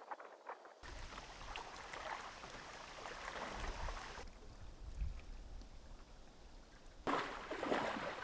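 Outdoor water sound, running or lapping water, with wind rumbling on the microphone. About seven seconds in it changes suddenly to a louder rush of water.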